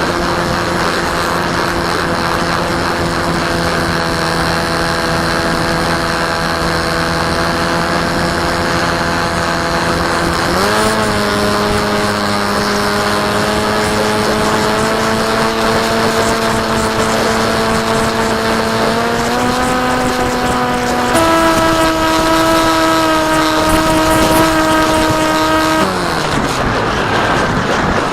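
Electric motor and propeller of a KT Wing RC plane whining in flight, with wind rushing over the onboard microphone. The whine's pitch steps up three times through the middle, then drops and fades out near the end.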